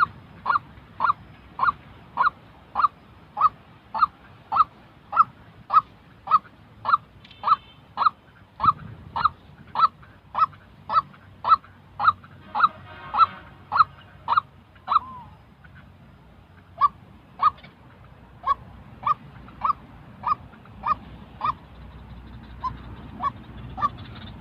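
White-breasted waterhen giving its repeated single-note call, nearly two notes a second in a long, even series. The calling breaks off about fifteen seconds in, then resumes more fainter and less regularly near the end.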